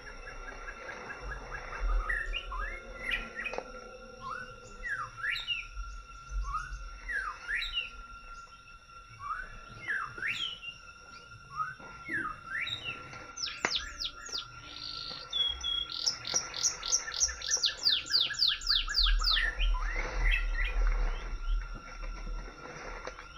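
Forest birds singing: short whistled notes sliding up and down, then a fast run of falling notes in the second half, over a steady high tone.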